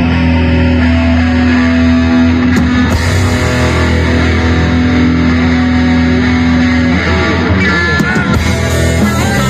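Metal band playing live: loud distorted electric guitars and bass hold long, sustained notes, with bending, wavering pitches about seven seconds in.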